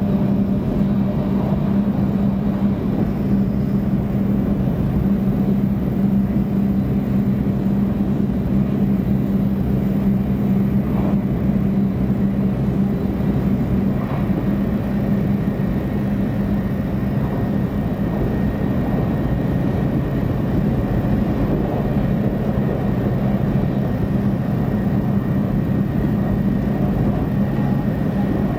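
Interior running noise of a 500 series Shinkansen: a constant rumble with a steady low hum.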